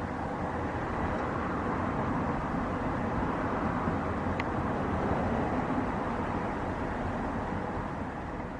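Jet airliner engines: a steady rush with a faint whine that swells gently and then eases off, as an aircraft passes.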